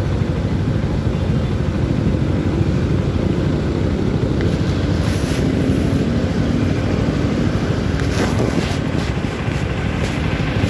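CFMoto 300SR motorcycle running, a steady engine and road noise, with short bursts of hiss about five seconds in and again around eight to nine seconds.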